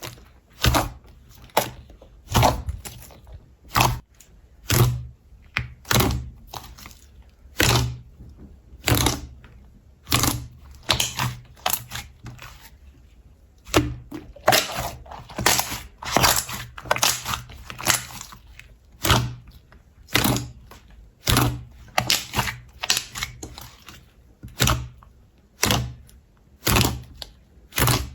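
Slime being worked by hand, giving sharp crunchy crackles and thuds about once a second, with a longer run of dense crackling around the middle.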